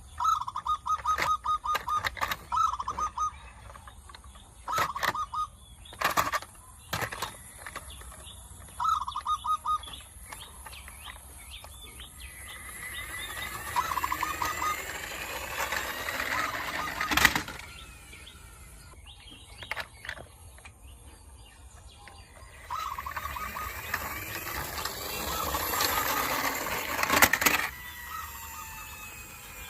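Plastic toy trucks being handled and rolled: several short bursts of rapid clicking and rattling, a few sharp knocks, and twice a longer whirring that rises and falls in pitch.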